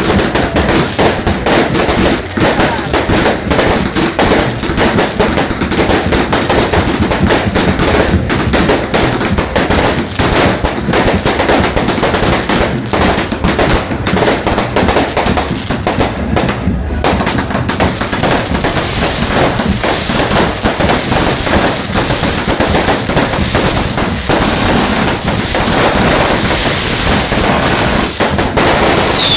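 Fireworks going off in a continuous loud barrage of rapid bangs and crackling. About two-thirds of the way through the sharp bangs thin out into a more even crackle.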